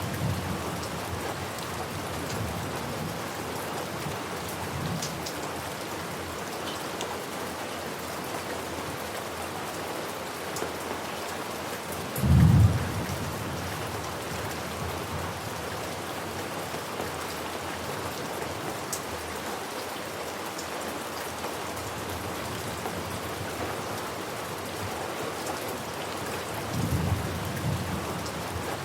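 Steady heavy rain hissing, with thunder: a short, loud low rumble about twelve seconds in, and fainter rumbles near the start and near the end.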